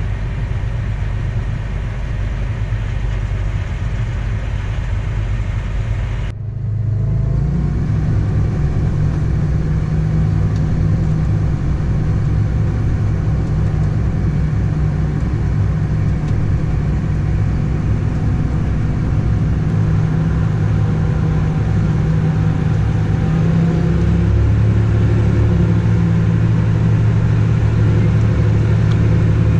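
A heavy farm machine's diesel engine running steadily under load, a loud, even low drone. About six seconds in the sound changes abruptly to a steadier, slightly louder drone.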